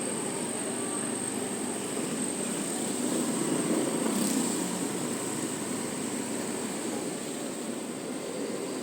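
Motor scooter running steadily under way, with road and street noise, swelling a little about three to four seconds in.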